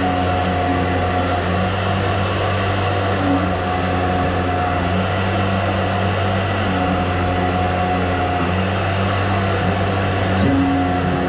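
A motor running steadily with a low hum and a noisy whir.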